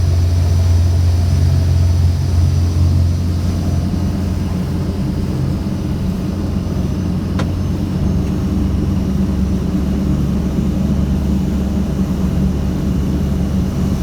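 Boat engine running the hull under way, a steady low drone whose note shifts upward about a third of the way in, with one sharp click about halfway.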